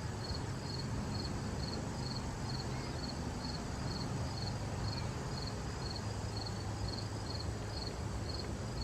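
Cricket chirping steadily, about two short high chirps a second, over a steady low rumble.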